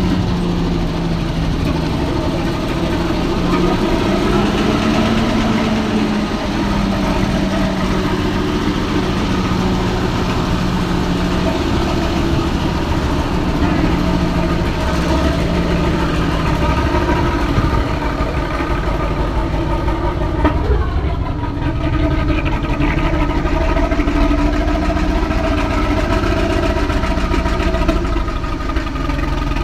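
Isuzu FVR truck's diesel engine idling steadily with a dense, even knock. The engine starts hard and smokes, which the owner suspects could be worn injector nozzles or worn piston rings.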